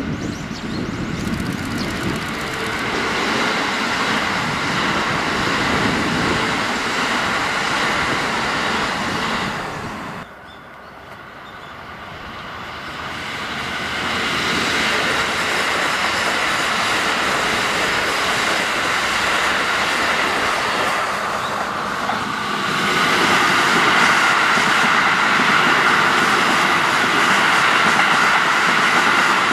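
Keikyu electric trains running past on the line: a steady rush of wheels on rails and motor noise. It drops away sharply about ten seconds in, builds again as another train approaches, and grows louder in the last quarter as a train passes close.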